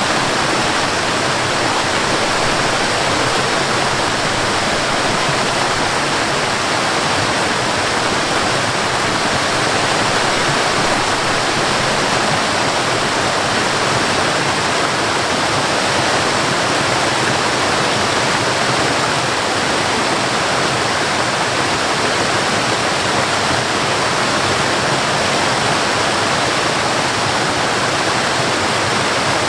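Waterfall, water pouring steadily with an even, unbroken rushing hiss.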